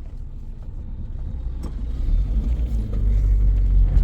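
A car engine running as a low, steady rumble that grows louder about two seconds in.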